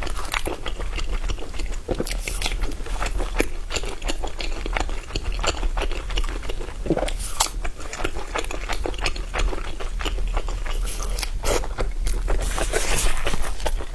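A person chewing and biting into thumb-sized pan-fried pork buns (shengjianbao) close to the microphone, with many irregular crunches and clicks.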